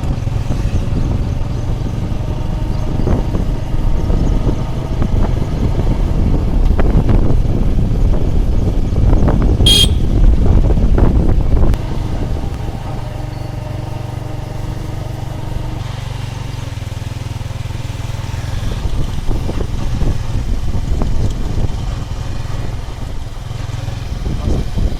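A motor vehicle running, with heavy low rumble and buffeting that is louder for the first half. A short high-pitched sound rings out about ten seconds in.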